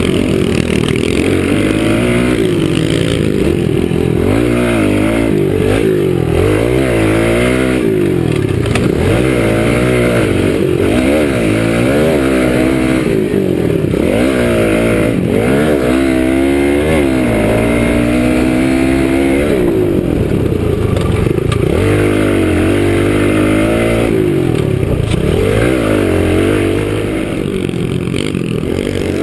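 Kawasaki KLX110 pit bike's small single-cylinder four-stroke engine being ridden hard, its pitch rising and falling again and again as the throttle opens and closes through the gears.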